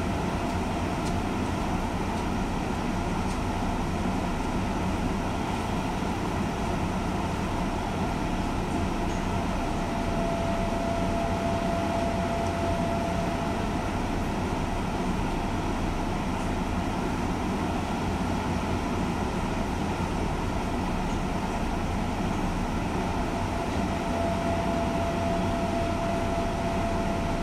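Steady hum of a stationary JR 201 series electric train standing at the platform with its onboard equipment running while it waits to depart. A thin whine comes in briefly twice.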